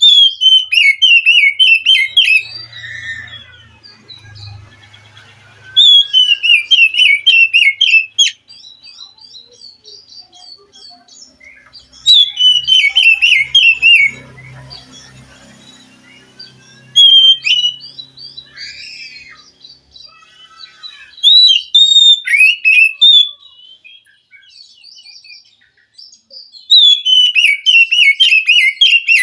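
Oriental magpie-robin singing in loud bursts of rapid chattering notes that fall in pitch, with short whistled phrases between them. There are about six song bursts, each a few seconds long, separated by brief pauses.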